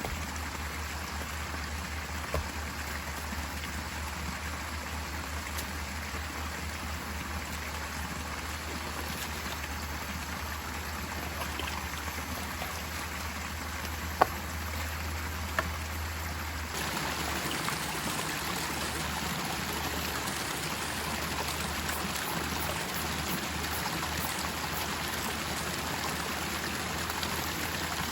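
Steady rush of running water from a forest stream, with a few sharp clicks near the middle. About two-thirds of the way through, the rush changes abruptly to a brighter, slightly louder sound.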